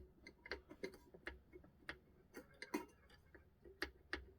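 Faint, irregular small clicks and taps from handling the parts of a 1970s Seiko day-date clock's movement, several a second and unevenly spaced.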